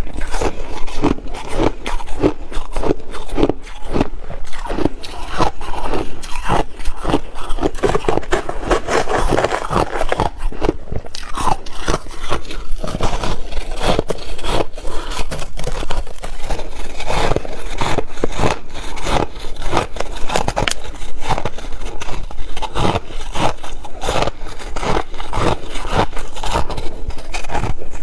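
Ice being bitten and chewed close to the microphone: a dense, unbroken run of loud crunches and crackles.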